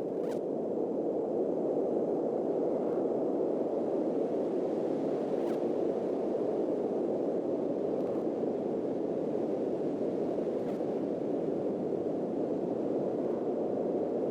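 A steady rushing noise, strongest in the low-middle range, with a few faint clicks.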